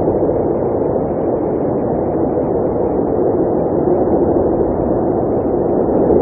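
Blizzard wind blowing steadily: a dense, dull rushing noise without distinct gusts.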